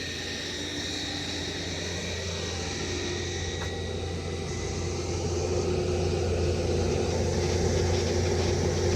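Steady low mechanical rumble with a constant low hum, growing gradually louder.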